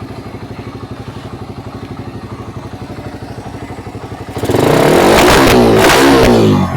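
Suzuki Raider 150 carburettor motorcycle's single-cylinder four-stroke engine idling with an even, fast pulse, then revved hard once about four seconds in, held for about two seconds and dropped back to idle near the end.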